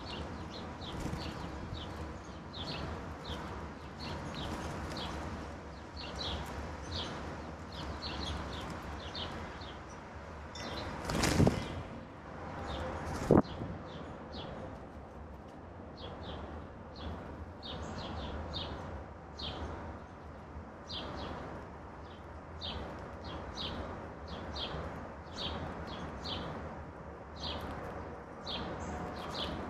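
Wild songbirds chirping, with short high calls repeated all the while. About eleven seconds in comes a loud brief rush, and a sharp knock follows about two seconds later.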